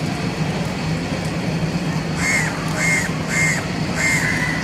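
Crow cawing four times in quick succession, about half a second apart, with the last caw a little drawn out. A steady low hum and background noise run underneath.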